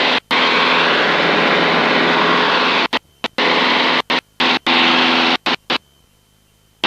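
Cessna 162 Skycatcher's Continental O-200 engine and propeller noise heard through the headset intercom, cutting in and out abruptly as the intercom's voice-activated squelch opens and shuts. There is one long burst of about two and a half seconds, then five shorter ones, with near silence and a faint steady tone between them.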